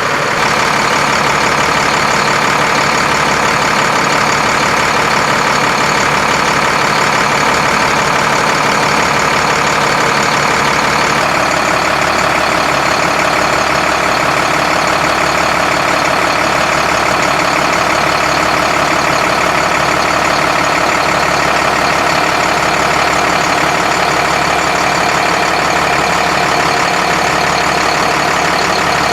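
Volvo FL6 truck's D6A six-cylinder diesel engine running steadily, its note shifting slightly about eleven seconds in.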